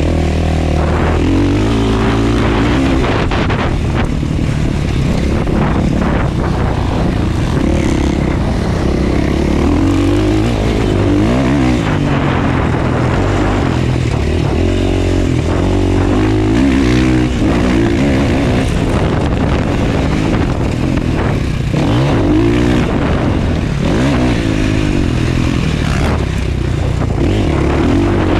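Motocross dirt bike engine revving hard, its pitch rising and falling again and again as it is throttled up and backed off, over a heavy low rumble.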